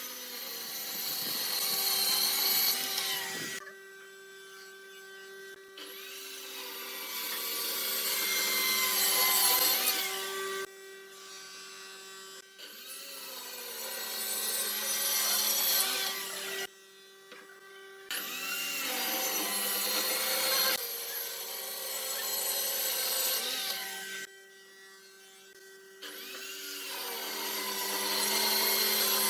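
A power tool working wood in repeated passes of several seconds. Each pass grows louder and then breaks off, with a steady hum running underneath.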